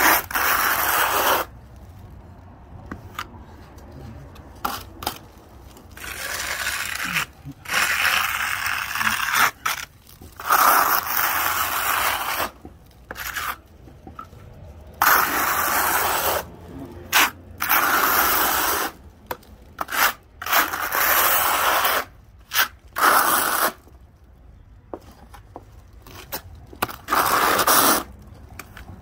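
Trowel scraping over concrete as an acrylic cement skim coat is spread, in repeated strokes of one to two seconds with short pauses between them.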